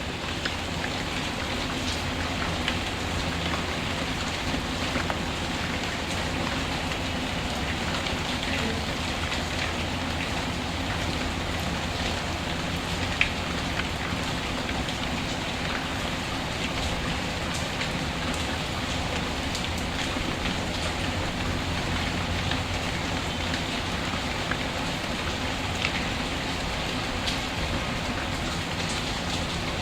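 Steady rain falling on a surface, with scattered light ticks and one sharper click near the middle.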